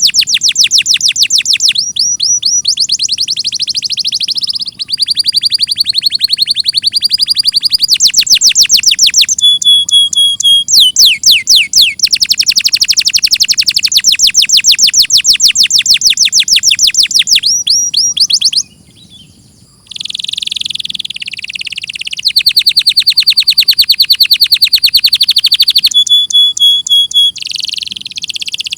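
Domestic canary singing a loud, continuous song of rapid trills, switching to a new rolling phrase every second or two, with a short break about two-thirds of the way through.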